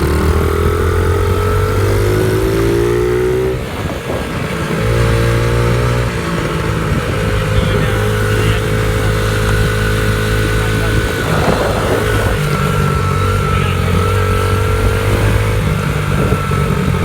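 Baja Motorsports 49cc dirt bike engine running under load while ridden. It revs up over the first few seconds, drops off briefly about four seconds in, then picks up again and holds a fairly steady pitch.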